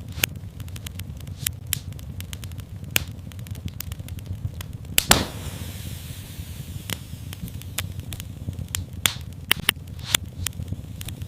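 Wood fire burning in a fireplace: a steady low rumble of the flames with frequent sharp crackles and pops, one louder pop about five seconds in.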